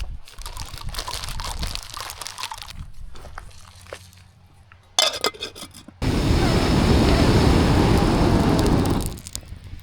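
Crinkling and rustling of camping gear being handled and packed away, with a few sharp clicks. Then, about six seconds in, a loud rushing noise starts abruptly and stops about three seconds later.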